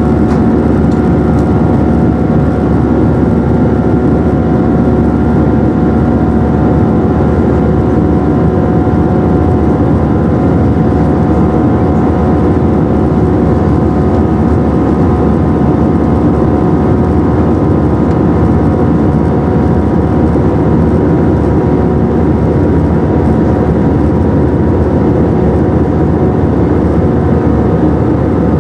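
Airbus A319 jet engines and airflow heard from inside the passenger cabin: a loud, steady rush with a few constant engine tones above it, unchanging in level and pitch.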